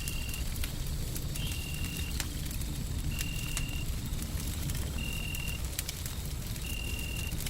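Wood fire crackling with scattered sharp pops over a steady, low rumbling white noise. A short high tone sounds five times, evenly spaced about every one and a half to two seconds.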